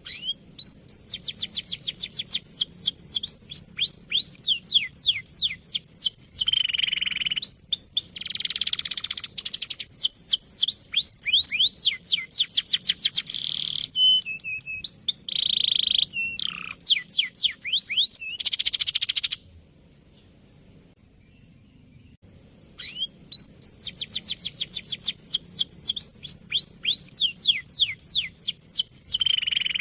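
Male canary singing a long, fast rolling song of rapid descending chirps and trills. It breaks off for about three seconds two-thirds of the way through, then starts again.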